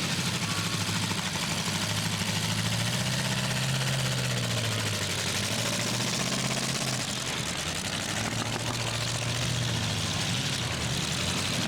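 Demolition derby truck engines running hard, the pitch climbing a few seconds in and dropping back around the middle as a driver revs and eases off, over a steady hiss of noise.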